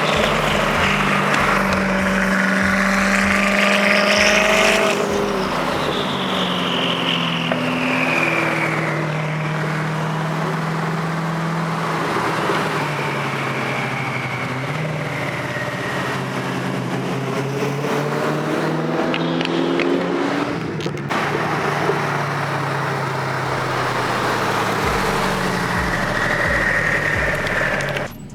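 Car engines running and revving as cars drive past, the pitch climbing and falling several times.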